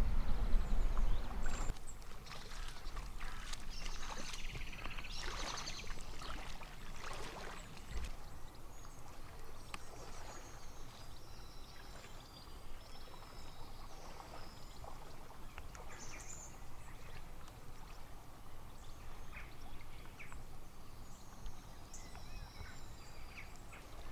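Canoe paddling on a river: the paddle dipping, splashing and dripping, with birds chirping. A low rumble in the first couple of seconds cuts off abruptly.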